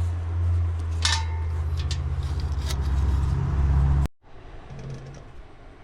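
Vehicle engine idling, a steady low hum, with a brief high squeak about a second in; the hum cuts off abruptly about four seconds in.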